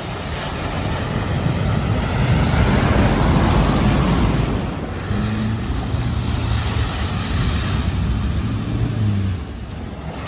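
A vehicle driving through a flooded ford: water rushing and splashing against it, with a steady engine note from about halfway in that drops away near the end.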